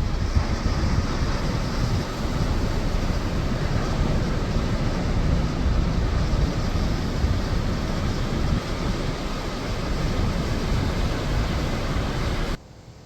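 Steady rushing wind buffeting the microphone, with a heavy low rumble, cutting off abruptly near the end.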